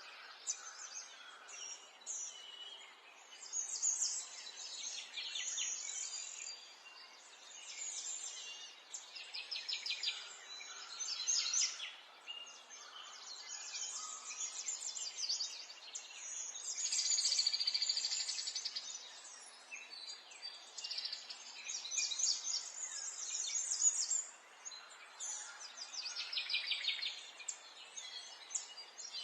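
Small songbirds chirping and singing in overlapping phrases of quick chirps and fast trills, one longer rapid trill about halfway through, over a faint steady outdoor hiss.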